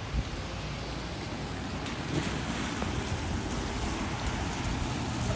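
Steady hiss of heavy rain on a street, with a low steady hum under it and a single knock just after the start.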